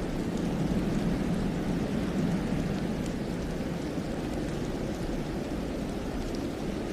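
Steady low wind noise, an even rush without gusts or pauses, with a few faint ticks above it.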